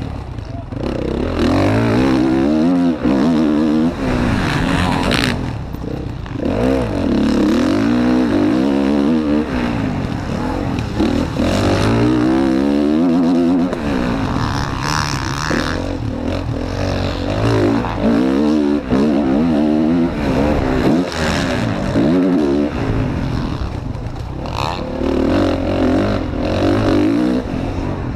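Motocross bike engine racing on track, its pitch repeatedly climbing under throttle and dropping off as the rider shifts and rolls off, over a steady rush of noise.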